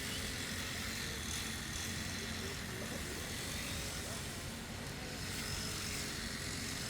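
Lawn mower engine running steadily, a continuous drone with a low hum.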